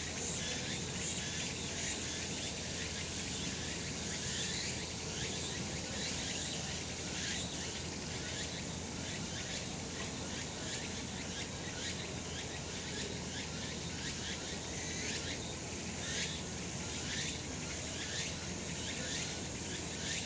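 Cicadas singing in a steady, dense chorus, with many short, repeated calls standing out above it.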